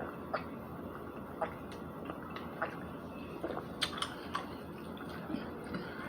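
Chewing of a spicy chicken McNugget, close to the microphone: irregular mouth clicks and smacks, a few sharper ones about four seconds in, over a steady background hiss.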